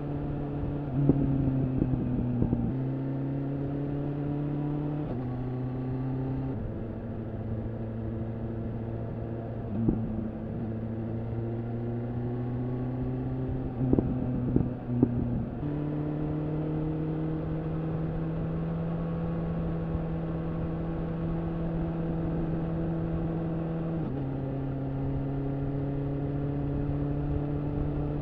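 Exhaust of a BMW S1000RR's inline-four through an Akrapovič slip-on, cruising at a steady engine speed. The pitch steps up or down several times as the gears change, with a few short louder bursts along the way.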